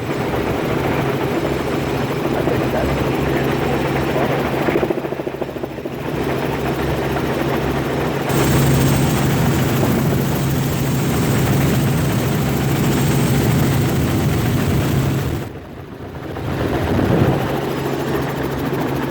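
Helicopter engine and rotor noise heard from inside the cabin in flight: a steady loud drone with a low hum, briefly dropping in loudness twice.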